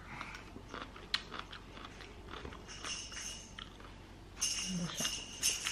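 Someone chewing a mouthful of kimchi: soft, irregular crunches, the sharpest about a second in. Near the end a small bell starts jingling.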